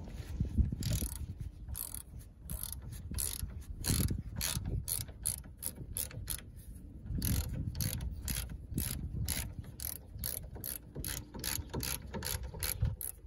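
Ratchet wrench clicking as it undoes a 15 mm brake caliper carrier bolt: a steady run of sharp clicks, about three a second, with a few short breaks.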